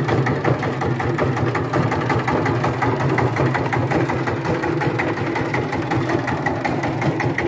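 Single-cylinder diesel engine of a power tiller running steadily at idle, with an even rapid knock of firing strokes.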